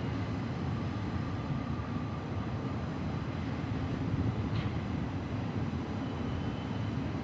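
Several BNSF diesel-electric locomotives working hard in notch 8 up a steep grade: a heavy, steady diesel engine rumble.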